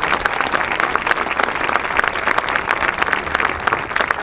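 Crowd applauding and clapping steadily, the response to a placing being announced at an awards ceremony.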